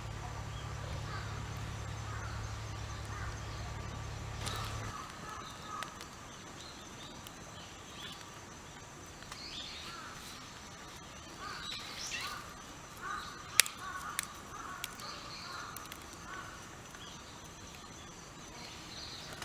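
Birds calling now and then over quiet outdoor background, with a steady low hum that cuts off abruptly about five seconds in and a single sharp click about two-thirds of the way through.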